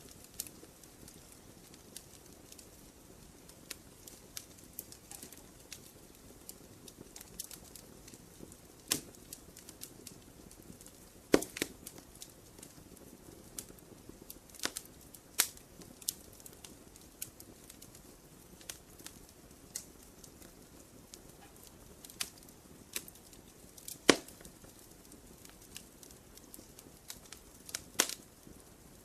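Wood campfire crackling: irregular sharp pops and snaps over a faint steady hiss, with the loudest pops at about 11 seconds and 24 seconds in.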